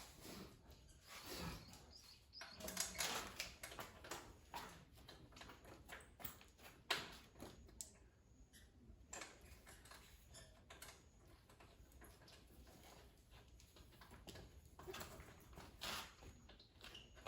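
Near silence with scattered faint clicks and short rustles, a few sharper ones in the first seconds and again around the middle and near the end.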